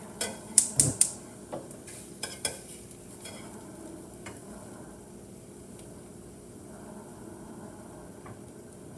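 A metal utensil clinks and scrapes against a pan several times in the first couple of seconds, then eggs cooking in the pan give a steady faint sizzle.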